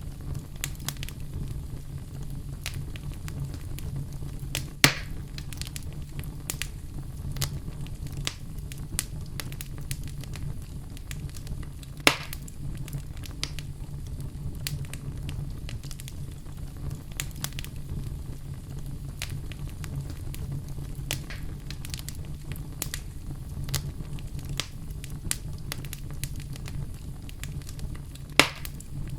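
Wood fire crackling in a fireplace, with a constant run of small snaps and three sharp, louder pops spread through the stretch, over a steady low rumble.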